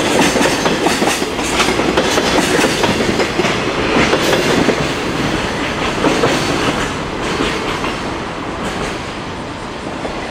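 Container wagons of a freight train rolling past, their wheels clacking over the rail joints. The sound fades away over the second half as the end of the train recedes.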